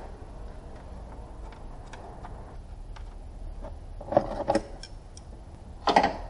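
A few short clattering knocks, two close together about four seconds in and a louder one near the end, over a steady low hum and faint ticking.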